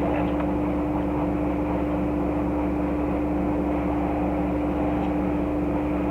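Steady mechanical hum with a constant low-mid tone over a low rumble, unchanging throughout, like a running fan or motor in the room.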